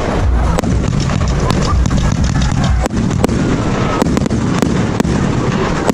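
Rockade War 88-shot 1.3G firework cake firing: a continuous low rumble of shells bursting with about ten sharp cracks spread irregularly through it and a faint whistle in the middle.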